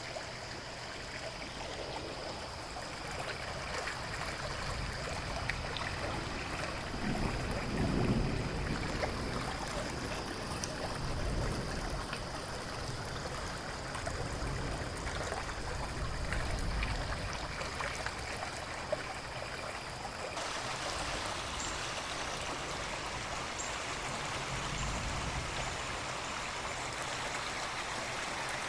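A river flowing steadily, mixed with rain, as one even rush of water. About eight seconds in, a low rumble of distant thunder swells and fades, and at about twenty seconds the rush turns a little brighter.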